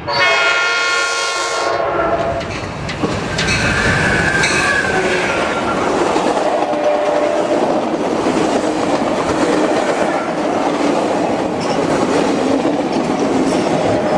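Sounder commuter train sounding a long horn blast that cuts off about two seconds in, then rolling past with a steady rumble and clatter of wheels on the rails.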